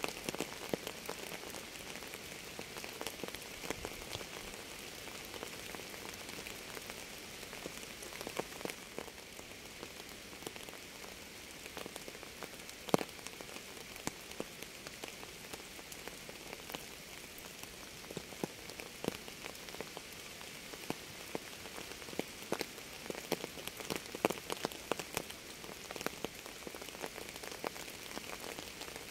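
Steady rain falling, an even hiss with many separate drops landing close by as short sharp clicks; one drop about 13 seconds in is the loudest.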